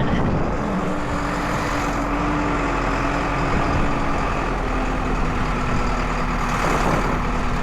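A vehicle engine running at a steady pitch, under heavy wind noise on the microphone.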